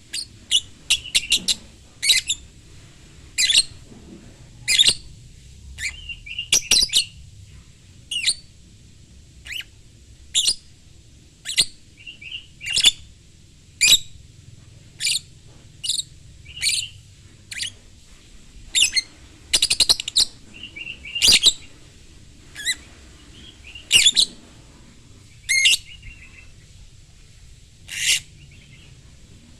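Lovebird calling with sharp, high chirps about once a second, now and then breaking into short trills.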